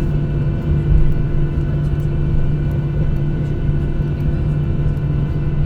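Steady cabin noise of a Boeing 737-800 with its CFM56 jet engines running: a low rumble with a constant, even hum and whine over it.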